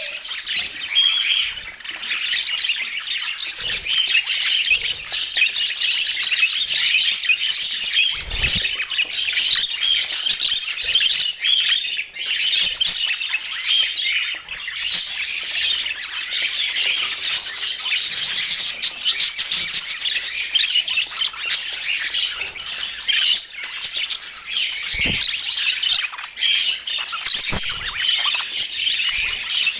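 Several budgerigars chattering and warbling without a break, a dense mix of chirps and squawks.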